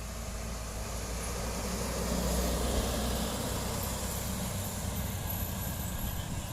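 A motor vehicle passing on the road, its low engine rumble swelling about two to three seconds in and then easing off a little.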